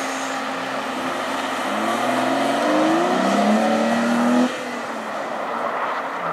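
BMW 3 Series sedan's engine revving hard under full throttle, its pitch climbing and then dropping suddenly about four and a half seconds in before climbing again as the car pulls away. Tyres spin and scrabble on loose dirt throughout.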